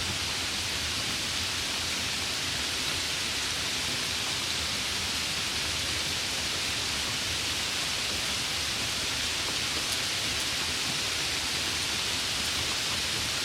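Steady rain, an even hiss of falling rain with a few faint drop ticks.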